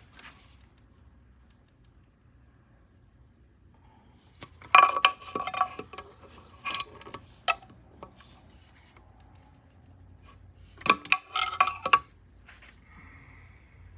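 Torque wrench and socket clicking and clinking on the connecting rod cap bolts of a golf cart engine, torquing them to 20 pounds. The metal clicks come in two quick runs, one about a third of the way in and one near the end.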